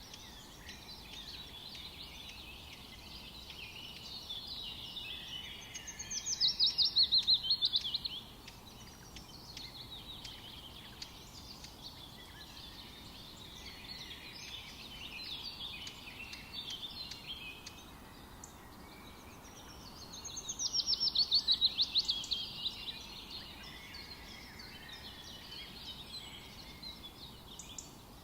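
Birds singing in a forest, a steady chorus of chirps and warbles. Twice, about fourteen seconds apart, one bird gives a loud, rapid trill that falls in pitch over about two seconds.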